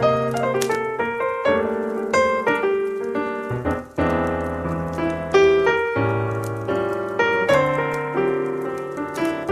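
Slow jazz piano music, with chords and single notes struck and left to ring.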